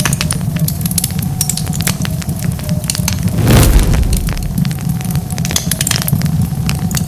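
Wood fire crackling, with many sharp snaps and pops over a steady low rumble of burning. A louder burst lasting about half a second comes about three and a half seconds in.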